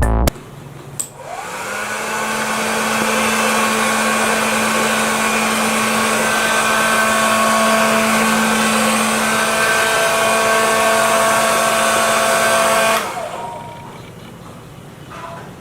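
Small electric fan motor of a homemade smoke machine spinning up about a second in, running with a steady hum and whine, then switched off near the end and winding down.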